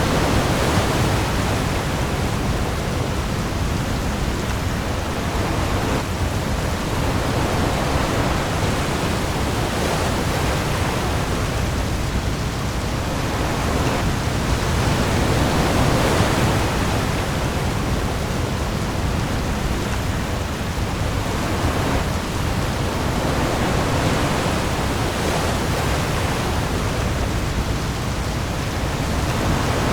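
Heavy rain pouring onto the open sea with waves, a dense steady rush that swells slowly every few seconds, with a low rumble underneath.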